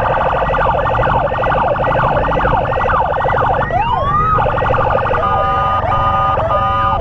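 Several emergency sirens of an ambulance and its escort sounding together: a fast repeating yelp, a slower rising wail in the middle, then a stepped alternating-tone pattern from about five seconds in. Underneath is a steady low rumble of road and wind noise.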